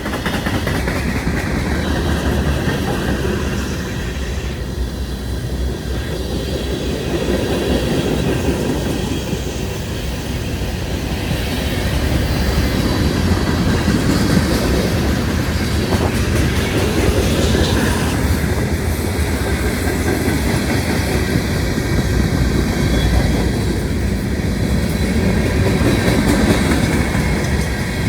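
Train cars rolling past, a steady rumble of steel wheels on rail with clickety-clack over the rail joints.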